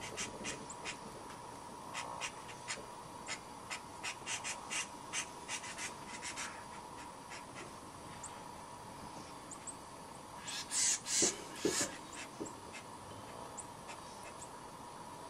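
Wild birds calling in brush: scattered short high chirps, and a few louder harsh, raspy calls a little past the middle. A run of sharp clicks fills the first half.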